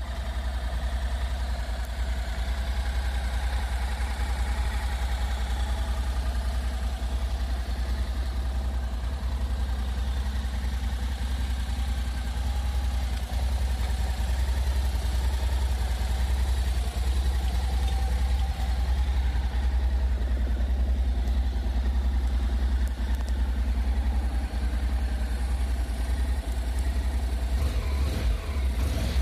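Honda NC700S DCT's 670 cc parallel-twin engine idling steadily.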